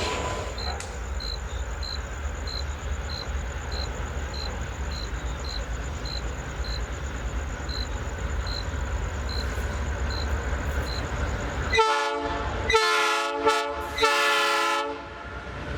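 Diesel freight locomotive running with a steady low rumble, then sounding its multi-note air horn in three blasts in quick succession near the end.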